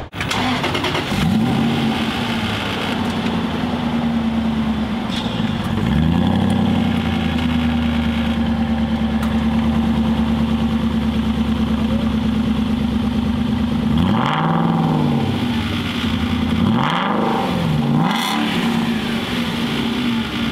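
2008 Aston Martin Vantage V8 engine and exhaust being revved. The revs climb about a second in, are held steady and high for several seconds, then a few quick throttle blips rise and fall near the end.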